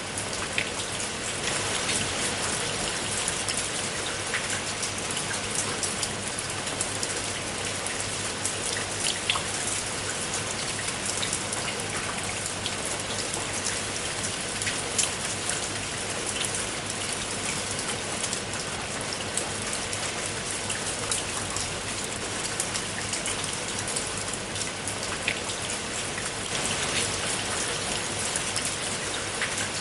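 Steady rain pattering on a clay-tiled roof, a constant hiss dotted with many sharp individual drop hits.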